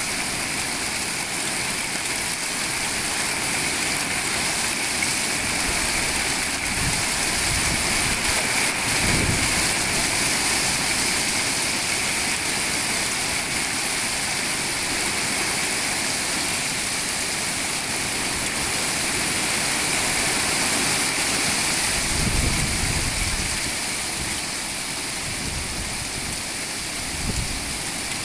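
Hailstorm with rain: a dense, steady hiss of hail and rain pelting down, with a few brief low rumbles.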